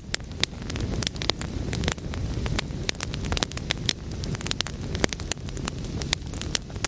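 Wood fire burning, with a steady low rumble of the flames and frequent sharp crackles and pops from the burning logs.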